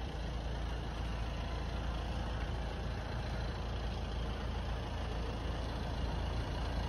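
Skoda Kodiaq engine idling: a steady low rumble that holds even throughout.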